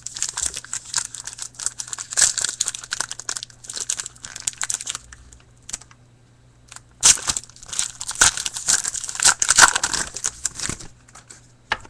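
Trading card pack wrappers being torn open and crinkled by hand, in two bouts with a short pause between them.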